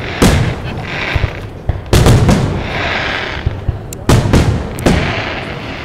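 Aerial firework shells bursting overhead: a series of loud booms, about four or five, the biggest about two seconds in, with a rushing hiss between the bangs.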